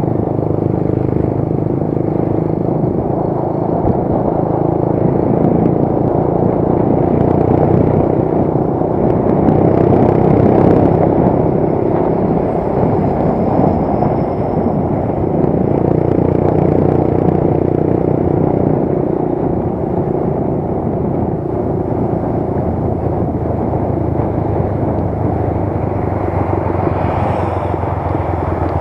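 Motorcycle engine running steadily at road speed, mixed with wind and road noise from riding, with small swells in level.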